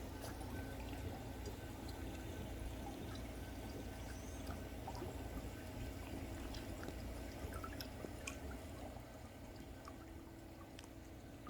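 Pool water trickling and splashing over the lip into the skimmer, a steady pouring with small drips, the flow weak because the pool water level is low. A steady low rumble runs underneath.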